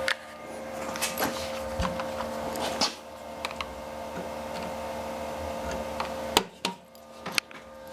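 Electric drill running at a steady pitch while drilling holes at punch marks, with a few sharp knocks. The motor stops about six and a half seconds in.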